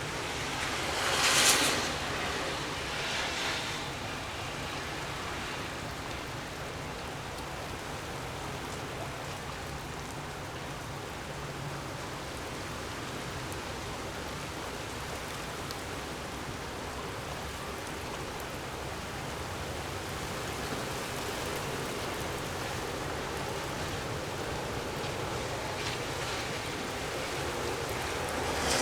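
Gusty wind, a steady rushing noise with a brief loud surge about a second and a half in and a smaller one soon after.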